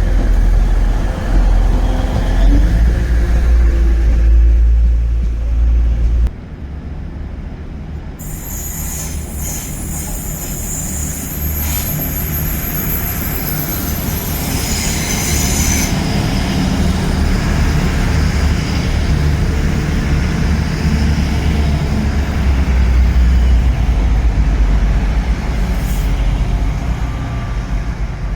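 A train moving through a station. A heavy low rumble cuts off abruptly about six seconds in. Then a high-pitched wheel squeal runs for several seconds over a steady rumble that gradually builds.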